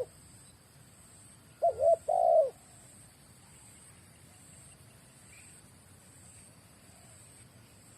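Young spotted dove (terkukur) cooing: one three-note phrase, two short notes and a longer one, about one and a half seconds in.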